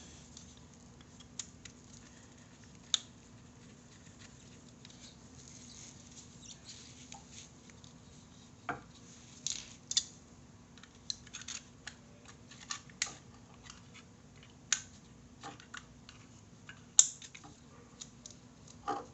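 Scattered light clicks and clinks of small metal brake caliper parts and bolts being handled and fitted by hand. They are sparse at first and more frequent from about halfway, with one louder click near the end, over a faint steady hum.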